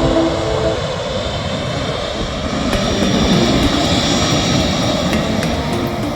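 Jet airliner engines passing close, a loud steady rush of engine noise with a high whine that builds from about halfway through.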